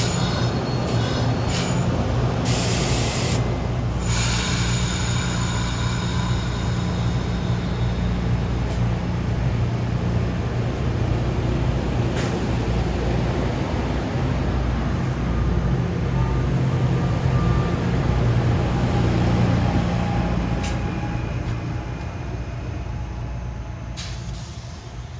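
NJ Transit Arrow electric multiple-unit train passing close by, a steady heavy rumble of wheels on rail with several sharp clicks in the first few seconds. The rumble fades from about twenty seconds in as the train draws away.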